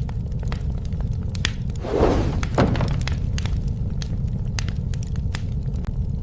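Campfire burning with a steady low rumble and scattered sharp crackles and pops, and a louder crunch about two seconds in, ending in a sharp crack.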